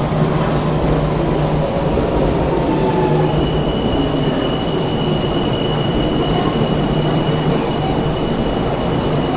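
Odakyu 30000 series EXE train rolling along the platform: a steady rumble of wheels on rail, with a thin high-pitched wheel squeal that sets in about three seconds in.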